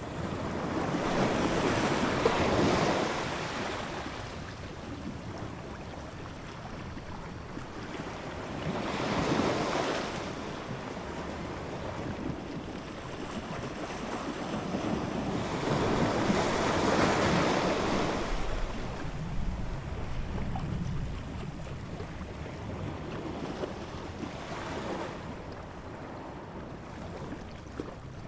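Ocean waves surging in and washing back out, the surf swelling and fading every seven or eight seconds, with a hiss between the breakers.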